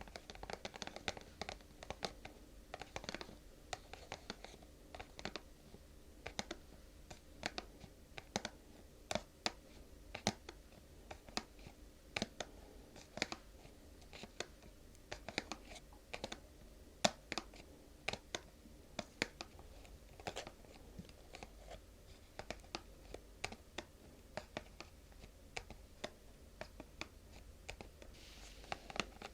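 ASMR tapping and scratching by fingers on a small object, close-miked: irregular light taps and short scratches, a few each second, with brief pauses between.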